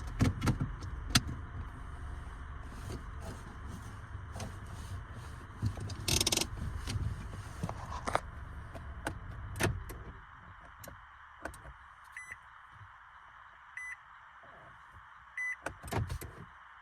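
Clicks and knocks over a low rumble that drops away about ten seconds in, followed by three short electronic beeps evenly spaced.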